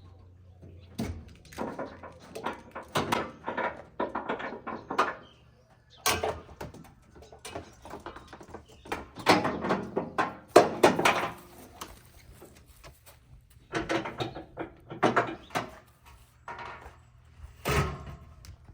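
Clanks and thuds in irregular clusters, loudest about ten seconds in, as equipment is handled to get a four-wheeler off its hauler.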